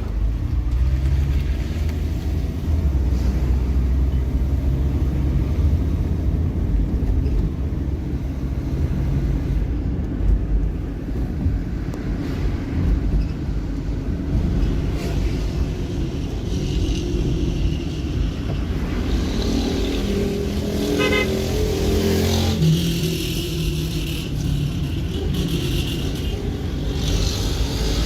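Car driving on a road: a steady engine and tyre rumble, with a brief higher-pitched sound about twenty seconds in.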